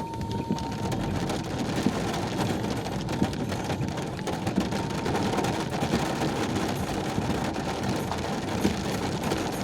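Heavy rain falling: a steady rush of water crowded with countless small drop impacts.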